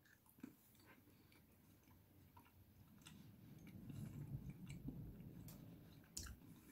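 Faint chewing of a jelly bean: soft wet mouth clicks and a low mushing sound that swells in the middle and fades near the end.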